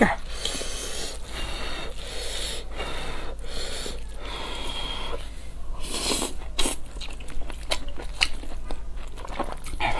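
Close-miked eating sounds: wet chewing and smacking of pan-fried dumplings and noodles, with breaths through the nose and a few sharp clicks scattered through.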